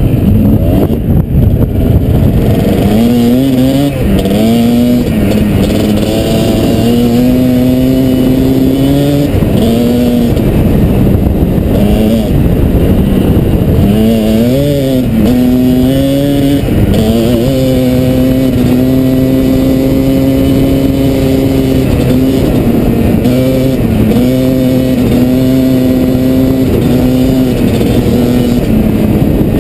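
Kawasaki KDX220 two-stroke single-cylinder dirt bike engine running under load while riding. Its pitch holds steady for stretches, then drops and climbs again a few times as the throttle and gears change.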